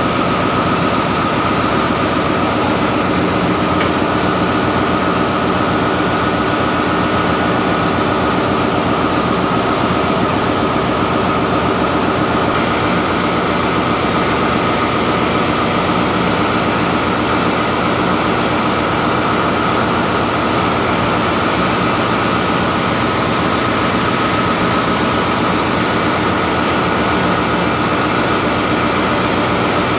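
Loud, steady drone of a ship's engine-room diesel machinery running, an unbroken roar with a few steady tones through it. The high end of the noise shifts a little about twelve seconds in.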